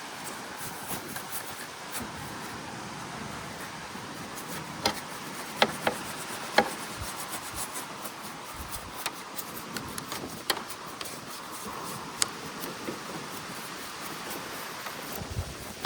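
Rubbing and scrubbing on the body of a small antique toy steam engine as it is cleaned down, with a few sharp clicks and knocks in the middle. Wind noise on the microphone runs underneath.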